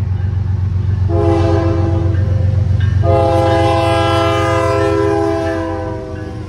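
CN freight diesel locomotive's multi-note air horn sounding a short blast about a second in, then a long blast from about three seconds in, over the steady low rumble of the locomotives and the train. The short-then-long pair fits the end of a grade-crossing horn signal.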